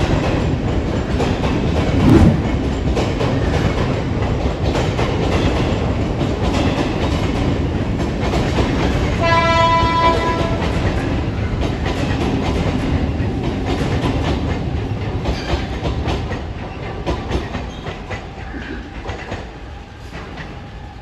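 Mumbai suburban electric local train running along the tracks, with a brief thump about two seconds in. Its horn sounds once for about a second and a half, about nine seconds in, and the running noise fades away over the last few seconds.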